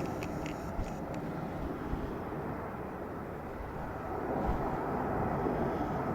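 Airbus A320 jet engines (CFM56) heard as a steady rumble across open air, swelling slightly a few seconds in. A few short clicks sound in the first second.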